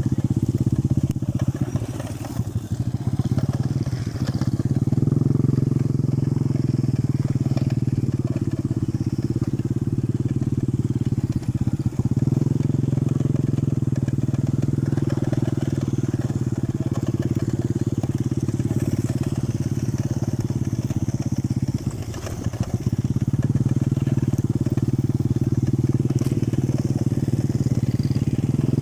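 A small engine running steadily at an even pitch, its note dipping briefly twice.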